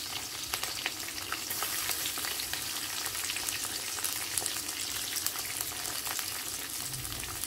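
Green chillies and onion sizzling in hot oil in a kadai, a steady hiss with many fine crackles; the hiss grows sharper about a second and a half in. This is the sauté of a tempering of mustard seeds and urad dal for upma.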